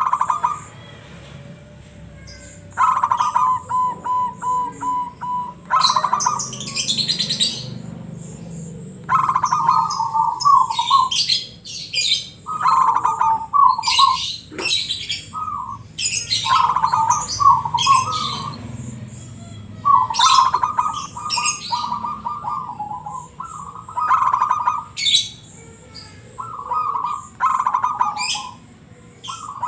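Zebra dove (perkutut) of local stock singing its cooing song in the deep 'ngebrem' style: a run of quick staccato notes ending in rolling coos. The phrase repeats every two to three seconds, with small birds chirping high-pitched between and over the phrases.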